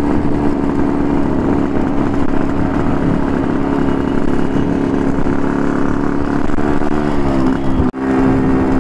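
Motorcycle engine running steadily at cruising speed while riding. Its pitch sags slightly near the end as the throttle eases off, then the sound drops out for an instant.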